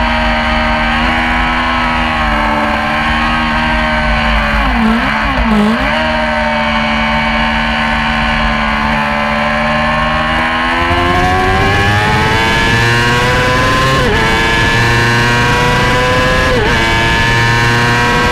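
Yamaha R6 inline-four race motorcycle engine at racing speed, holding a fairly steady note with two brief dips about five seconds in. From about ten seconds in it accelerates hard, its pitch climbing, then dropping sharply at two upshifts near the end.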